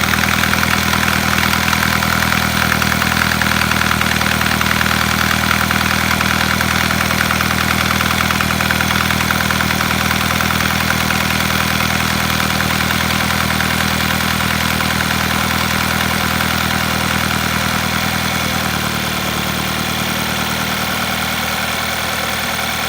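Volkswagen Passat B6 engine idling steadily with a knock in the engine. The idle note shifts slightly near the end.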